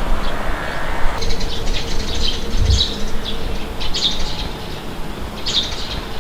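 Small birds chirping, short high calls repeating every second or so, over a steady rush of wind with a low rumble. The wind is louder for about the first second, then eases.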